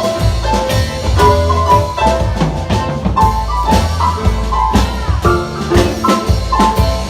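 Live rock band playing an instrumental passage: a bright keyboard picks out a melody of short, quick notes over a steady bass line and drum kit with regular hits.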